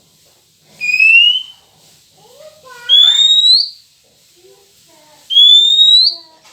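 Kacer (oriental magpie-robin) lure whistle: a clear rising whistled note, given three times about two seconds apart, with fainter lower sliding calls between.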